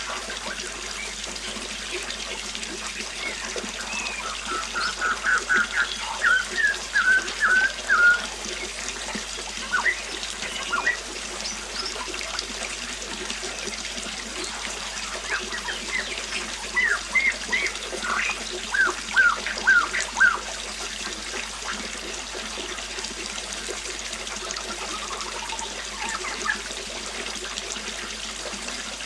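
Flowing river water running steadily, with birds singing over it: a run of quick chirps about four seconds in and another burst around fifteen to twenty seconds in.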